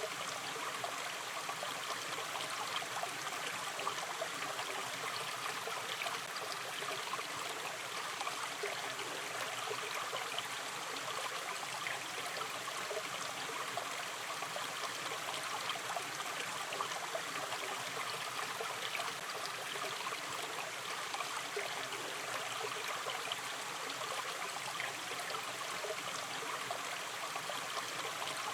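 Gentle natural river stream running steadily, water trickling and gurgling over its bed.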